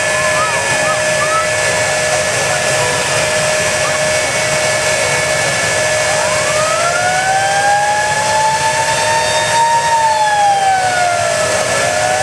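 Jet truck's jet engine running with a loud, steady rush and a high, steady whine. About six seconds in, a second whine rises in pitch, holds, and falls away near the end.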